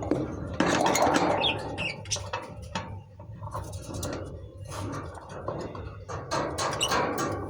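Pet lovebirds chirping and chattering in short high calls, mixed with irregular sharp clicks and taps.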